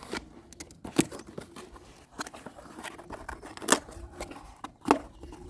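A small cardboard product box being opened by hand: light scraping and clicking of the flaps, with three sharper snaps about a second in, past halfway, and near the end.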